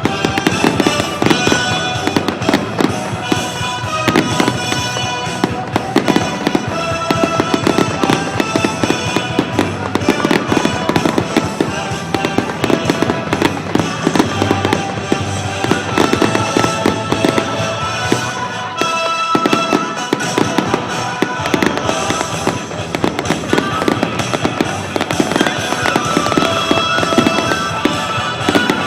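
Fireworks display: rapid, continuous bangs and crackling, with music playing underneath.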